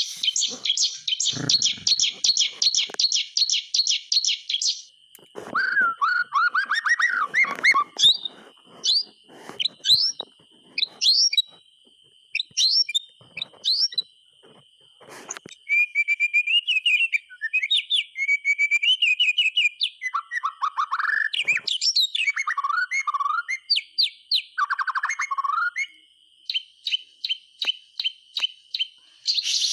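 White-rumped shama (murai batu) singing: a fast chattering run of repeated high notes, then a varied string of clear whistled phrases that slide up and down in pitch, with the fast repeated notes coming back near the end.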